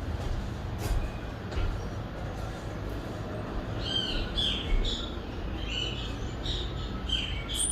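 A bird calling in a quick run of short, falling chirps, starting about four seconds in, over a steady low rumble of distant city traffic.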